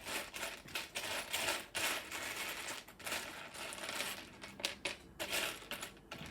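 Loose plastic Lego pieces rattling and clicking as hands sort through a pile of them, in uneven bursts.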